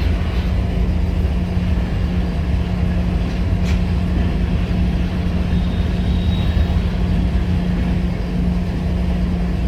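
Freight train running past: a steady, loud low rumble with a constant hum. There is a faint tick a little past three and a half seconds in, and a faint high tone around six seconds.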